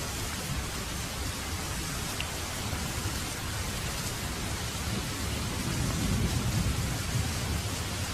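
Heavy rain falling steadily, with a low rumble of thunder swelling about six seconds in.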